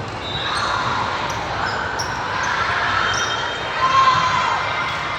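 Indoor volleyball game noise in a gym: many voices calling and cheering, echoing in a large hall, with ball thuds and short shoe squeaks, the sharpest squeak about four seconds in.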